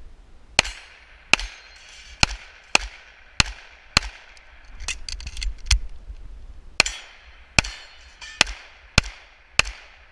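Pistol shots fired in a string during a timed stage: about a dozen shots at an uneven pace, roughly half a second to a second apart, each followed by a short echo.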